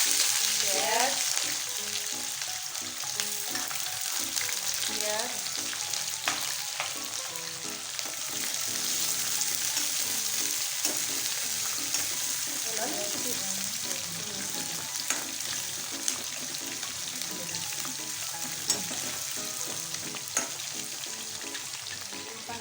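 Chopped onions sizzling in hot oil with panch phoron spices in a pan: a steady high hiss, loudest in the first second or so, with occasional sharp clicks.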